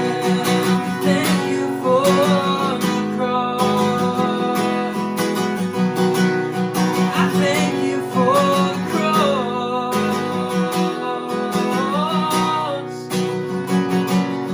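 Instrumental worship music: a strummed acoustic guitar in a steady pulse under sustained held chords, with a melody line that rises and falls in phrases of a few seconds.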